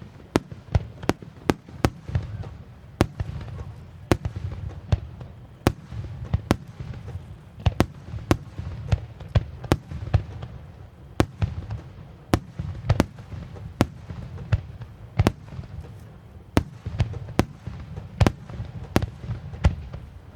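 Star mine fireworks barrage: a rapid, irregular series of sharp shell bursts, two or three a second, over a continuous low rumble.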